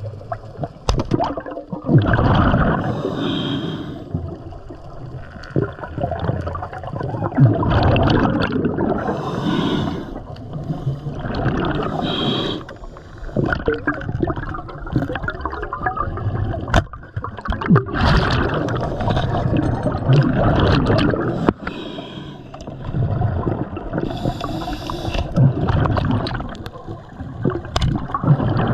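Scuba diver breathing through a regulator underwater: short hissing inhalations alternate with long bubbling, gurgling exhalations, several times over.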